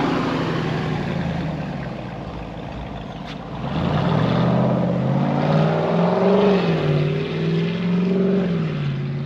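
Jeep Wrangler 392's 6.4-litre HEMI V8 running through an MRT H-pipe exhaust that deletes the resonator. The note eases off, then rises again about three and a half seconds in and swells up and down with the revs.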